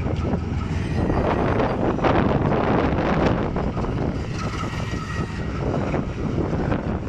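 Strong wind buffeting the microphone over the low, steady rumble of a departing train.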